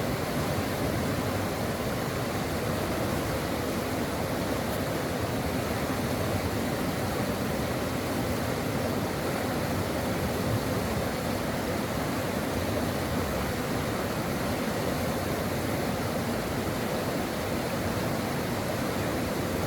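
Brook water flowing steadily over rocks, an even, unbroken rush of noise.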